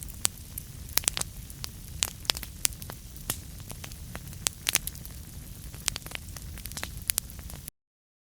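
Wood fire in a fireplace crackling, with frequent sharp pops of varying loudness over a low rumble of the flames. The sound cuts off abruptly near the end.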